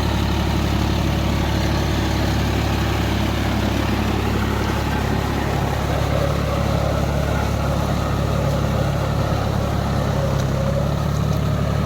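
John Deere 5042D tractor's three-cylinder diesel engine running steadily at constant speed.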